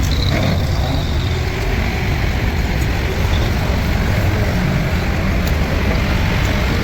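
Heavy diesel engine running steadily with an even low rumble.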